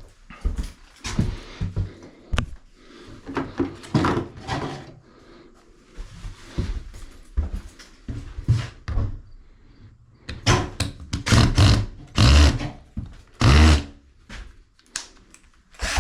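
Irregular thumps, knocks and rustling of objects being handled in a small room, with the loudest thuds coming about ten to fourteen seconds in.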